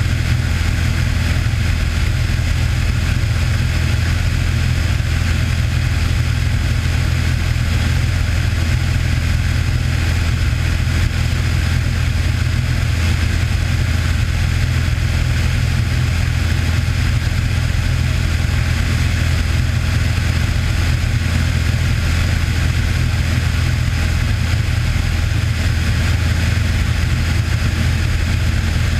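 Cessna 182's single piston engine and propeller droning steadily in flight, at an even pitch and level with a deep hum.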